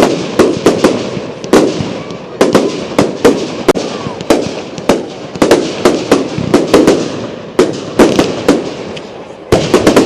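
Fireworks going off in a rapid, irregular barrage of sharp bangs, two or three a second, each with a short echo. There is a brief lull near the end, then a final loud pair of bangs.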